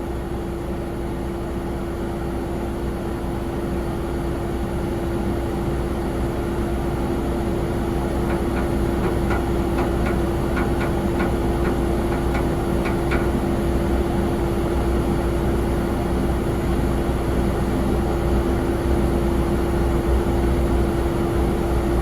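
Airliner jet engines running at low power: a steady whine over a low rumble, slowly growing louder.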